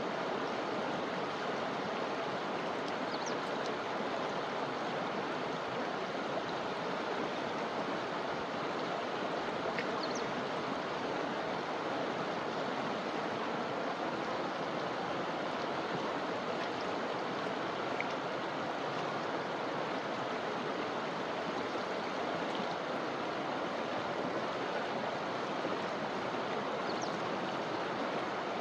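A forest river flowing, a steady, even rush of water with no change in level. A few faint, very brief high-pitched sounds rise above it now and then.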